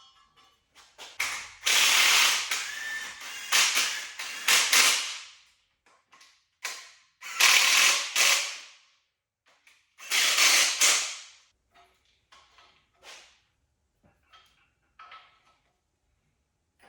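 Hand ratchet wrench clicking in three spells of rapid strokes, tightening exhaust manifold bolts, followed by a few fainter clicks.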